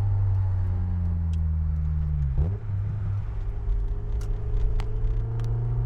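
Honda S2000's four-cylinder engine running while driving, now with a new timing chain tensioner fitted. Its note falls slowly for about two seconds, breaks briefly about two and a half seconds in, then holds steady and rises a little.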